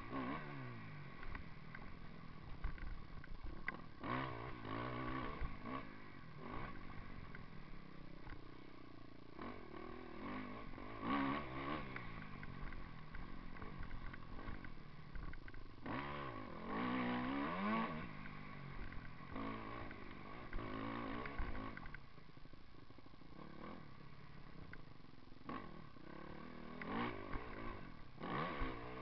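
Motocross bike engine revving up and down over and over as it is ridden hard, with occasional sharp knocks.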